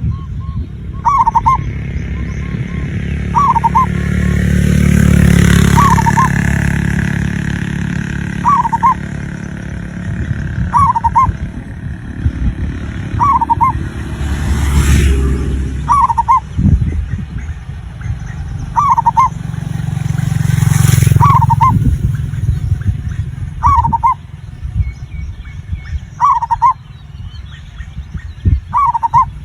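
Male zebra dove (perkutut) cooing: short coo phrases repeated about every two and a half seconds, about a dozen times, over a loud low rumble that swells and fades twice.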